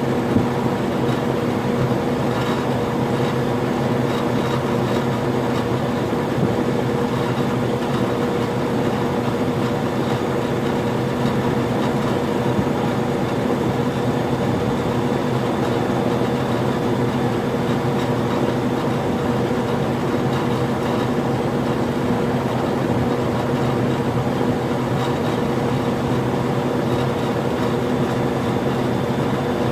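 1997 Ruud 3-ton 10 SEER central air conditioner condensing unit running steadily: a compressor hum with several steady tones under the even rush of the condenser fan.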